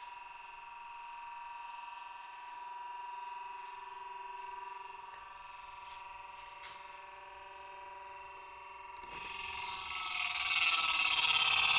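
Abnormal noise from an LG refrigerator's freezer compartment: a steady, high, buzzing whine that, about nine seconds in, swells into a much louder, harsher racket that keeps building.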